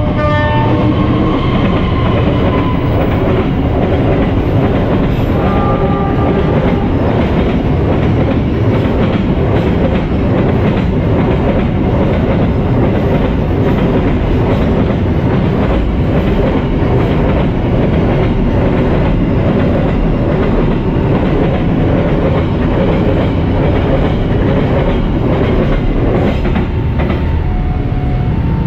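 Diesel-hauled container freight train passing close by: the locomotive sounds its horn in the first seconds, then a long string of loaded container wagons rumbles and clatters steadily over the rails. Near the end a two-tone level-crossing warning alarm sounds again.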